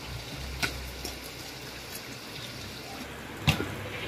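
Heavy rain falling steadily, with a volleyball being struck twice: a softer hit under a second in and a sharp, louder smack about three and a half seconds in.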